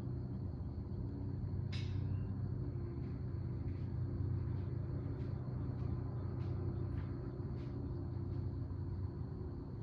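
Steady low mechanical hum with a few faint scattered ticks over it.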